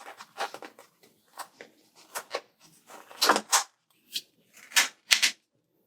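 Paper stickers being handled and pressed onto a planner page: a string of short rustles and taps, a few louder ones in the second half.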